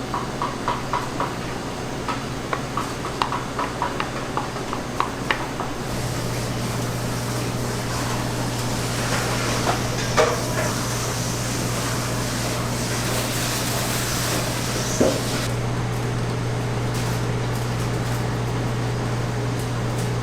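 Food-preparation sounds: a run of quick, light ticks, about three a second, for the first few seconds. Then a steady low machine hum comes in about six seconds in, with a hiss and a few single knocks.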